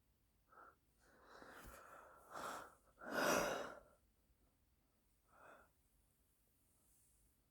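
A person's breathing, close to the microphone: a short breath, a longer rough exhalation, then the loudest, a heavy breath about three seconds in, and one more short breath a couple of seconds later.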